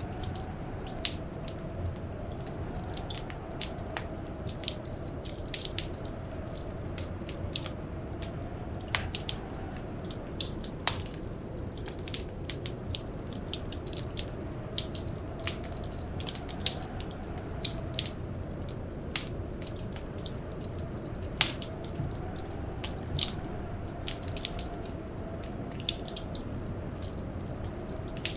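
Wood fire crackling in a fireplace, with dense irregular snaps and an occasional louder pop, over a steady low rumble. A faint hum slowly wavers up and down in pitch underneath.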